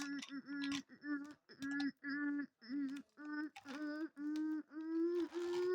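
A voice singing or humming a run of short notes on one pitch, about two a second, rising slightly toward the end.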